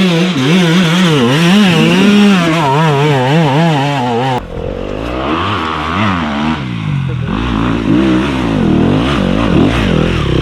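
Enduro dirt bike engine revving up and down as the rider works the throttle. About four seconds in the sound cuts abruptly to a lower, uneven engine note that keeps rising and falling.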